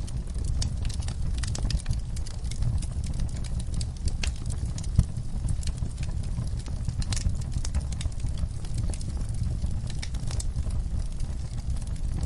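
Wood fire crackling in a fireplace: many sharp pops and snaps over a steady low rumble of the flames, with one louder pop about five seconds in.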